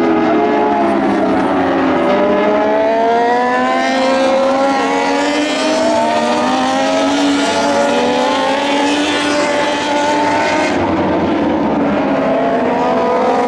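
Several Moto2 racing motorcycles with Triumph 765 cc three-cylinder engines at full throttle, their pitches overlapping. Each climbs as the bike accelerates and drops back at every upshift.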